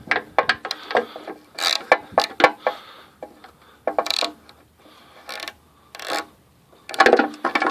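Socket ratchet wrench clicking in short, irregular bursts while a stubborn bolt is worked loose.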